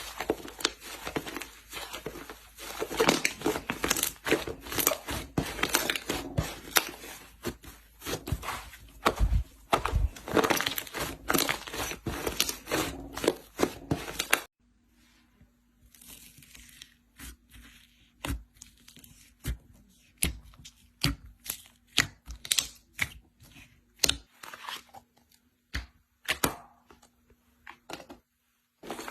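Slime being squished and stretched by hand, making dense crackling, popping and sticky tearing sounds. About halfway in it cuts suddenly to quieter, sparser single pops.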